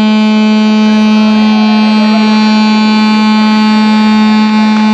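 Ship's horn giving one long, loud blast on a single steady pitch, sounded as the tall ship Thalassa leaves the harbour.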